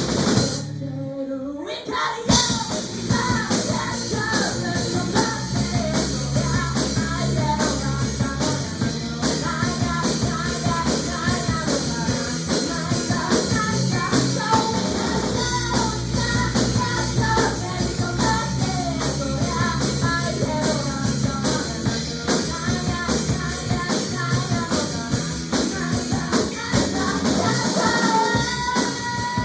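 Rock music with a drum kit and singing. About a second in, the band briefly drops out before the full band comes back in.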